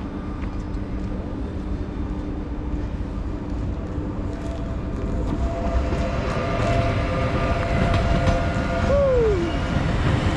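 Double-deck electric regional train moving past close by on the adjacent track: a rumble that grows louder through the second half, with a steady whine over it and one brief squeal falling in pitch near the end.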